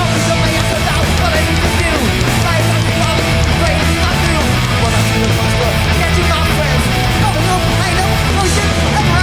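Hardcore punk band playing live at full volume: distorted electric guitars, bass and drums in a fast, steady wall of sound.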